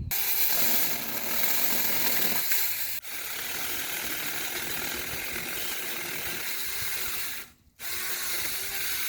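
Saker battery-powered mini chainsaw running, its chain clattering steadily; it cuts out for an instant about three seconds in, stops for about half a second near the end, then starts again.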